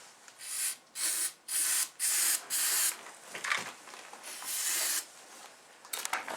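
Aerosol can of starting fluid sprayed in about five short hissing squirts, then one longer hiss, into the intake of a 2003 Suzuki DR-Z125 that will not start from cold.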